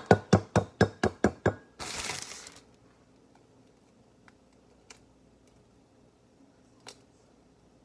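An egg tapped quickly and repeatedly against the rim of a mug, about eight sharp ringing knocks in a second and a half: a shell that is hard to crack. A short crunch of the shell giving way follows about two seconds in, then only a few faint clicks.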